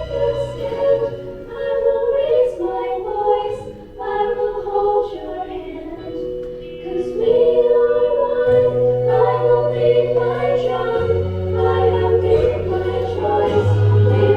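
Choir singing a slow song in held notes over low sustained accompaniment.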